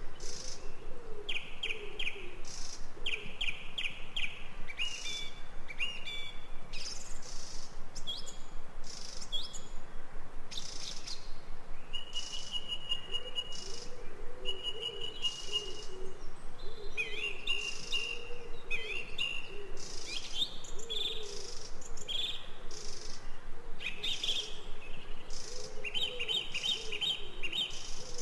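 Forest birdsong: several birds singing repeated trilled phrases and a held whistled note, with low wavering calls underneath.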